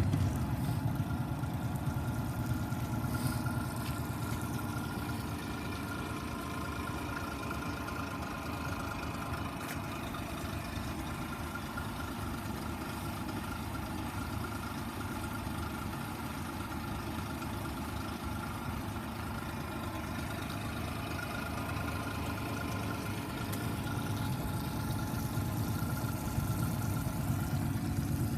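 Honda four-stroke outboard motor idling steadily, just after starting, a little louder in the last few seconds.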